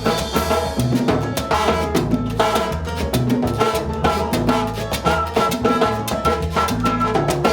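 A live salsa band playing: bass line, piano, and timbales and congas driving the rhythm.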